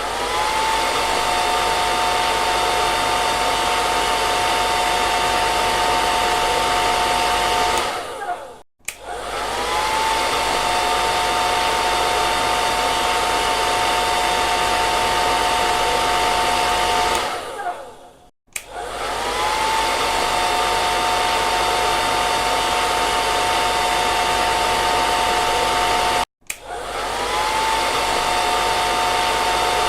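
Electric hair dryer blowing steadily: a rush of air with a steady motor whine. About every nine seconds it cuts out for a moment and starts again, the whine rising as the motor spins back up; this happens three times.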